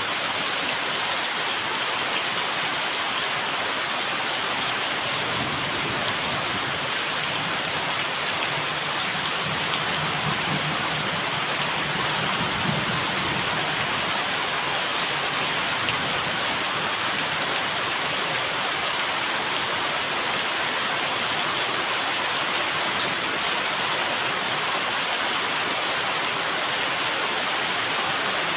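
Steady, even rain falling, with a faint low rumble for several seconds near the middle.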